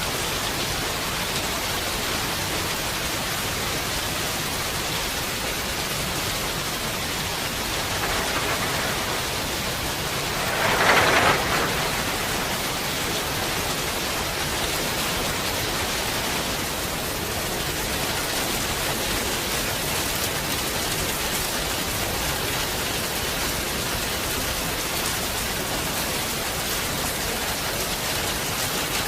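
Heavy rain falling as a steady, even hiss, with a brief louder surge about eleven seconds in.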